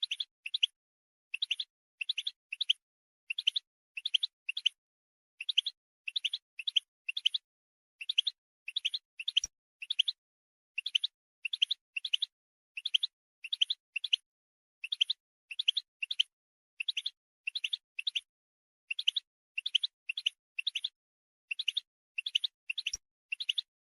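Female European goldfinches giving short contact calls, quick chirps in tight clusters of two to four, repeating about once a second. This is the call keepers play to stir male goldfinches into song.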